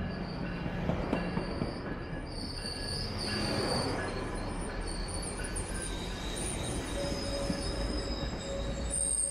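Railroad cars rolling past on the rails, the wheels squealing in high, wavering tones over a steady rumble.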